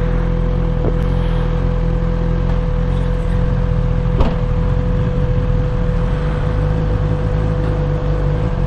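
BMW S1000XR's inline-four engine running steadily, a continuous low rumble with a steady mid-pitched hum over it.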